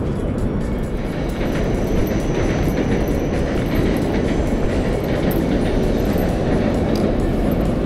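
Train running across a steel railway bridge, a steady heavy rumble.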